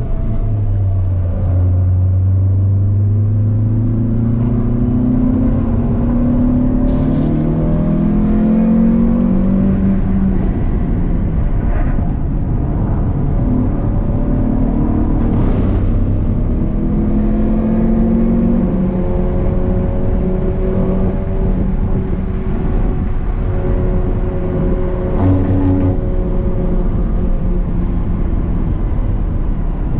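Renault Clio 182's 2.0-litre four-cylinder engine heard from inside the cabin on track. It revs up hard through the gears and eases off into corners, so its pitch climbs and falls several times over steady road and wind noise.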